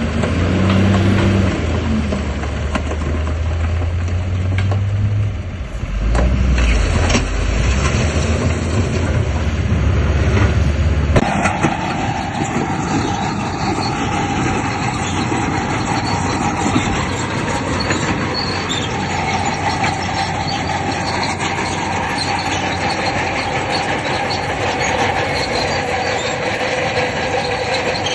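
Heavy diesel earthmoving machinery running with a deep engine drone for the first eleven seconds or so. It then changes abruptly to a steady metallic squealing and clatter like the steel crawler tracks of a bulldozer grinding along.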